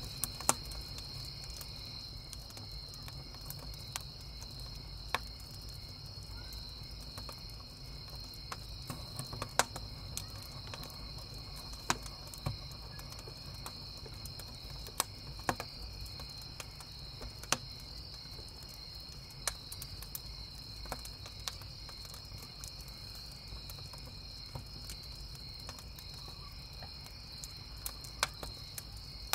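Crickets chirping steadily, with a wood campfire crackling and popping at irregular moments over the top.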